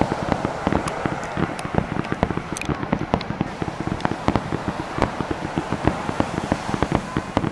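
Fireworks star mine: a rapid barrage of shells bursting, several booms and cracks a second without a pause, over a continuous rumble.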